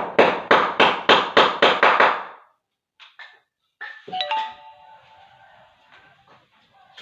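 A hammer striking in a quick even series, about eight blows over the first two seconds, then a short ringing tone about four seconds in.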